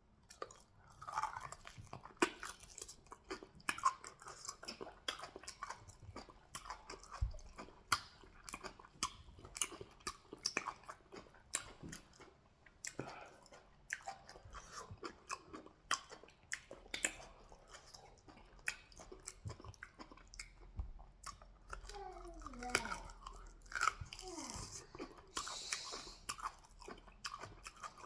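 Close-miked chewing and mouth smacking from eating fufu with goat meat in peanut soup: a steady run of irregular wet clicks and soft crunches.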